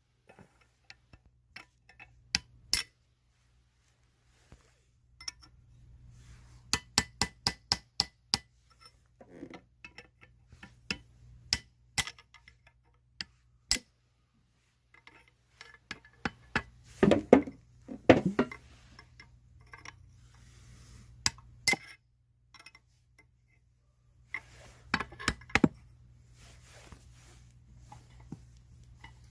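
Hand tools and metal parts clinking and tapping during mechanical work, as separate sharp hits. A quick run of light taps comes about seven seconds in, and a couple of heavier knocks come a little past halfway.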